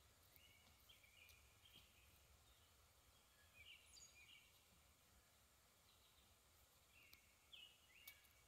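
Near silence with faint bird chirps: short, high notes in three brief clusters.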